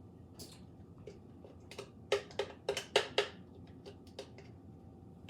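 A spoon knocking and scraping against a dish, with a quick run of about half a dozen sharp taps in the middle.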